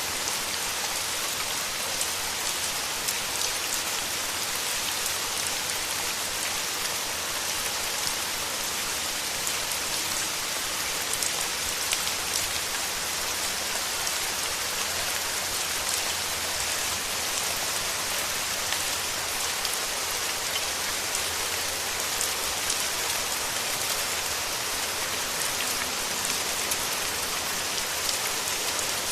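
Steady rain falling, a dense even hiss with individual close drops ticking through it.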